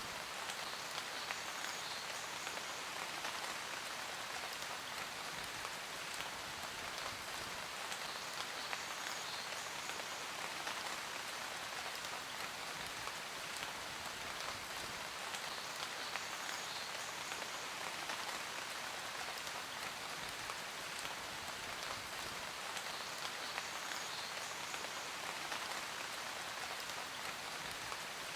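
Steady rain falling, a dense even hiss with many small drops ticking through it.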